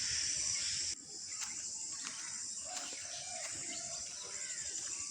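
A steady, high-pitched insect trill with short bird chirps and calls over it. The background drops abruptly about a second in.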